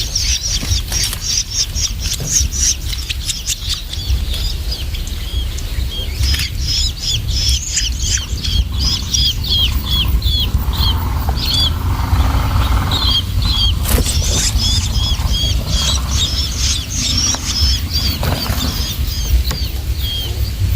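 Long-tailed shrike chicks calling with rapid runs of short, high chirps, over a steady low rumble.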